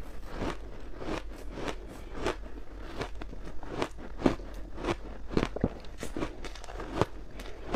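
Crunchy ice dusted with matcha powder being bitten and chewed close to the microphone: a fast, irregular run of sharp crunches, several a second.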